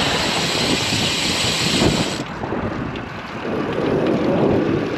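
Strong headwind rushing over the microphone of a moving bicycle, mixed with the rumble of road traffic. About two seconds in, the high hiss drops away suddenly and a lower rumble continues.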